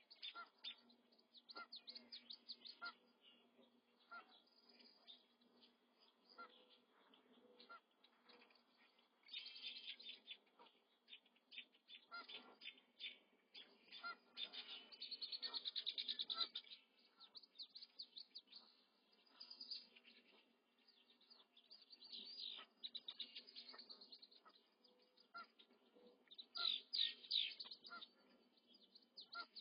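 High bird chirps and rapid trills, coming in short bursts every few seconds.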